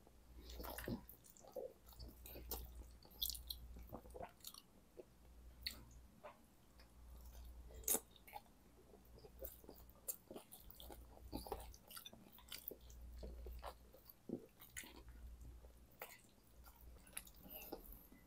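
Close-miked chewing of soft, cheese-covered curly fries, with wet mouth smacks and clicks, and the metal fork now and then scraping and tapping the glass dish. Quiet throughout, made of many short separate clicks rather than one steady sound.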